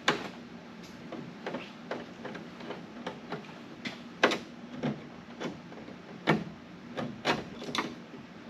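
Irregular sharp clicks and light knocks, about one or two a second, from metal parts and hand tools being handled. The loudest come at the very start and about four, six and seven seconds in, over a faint steady hum.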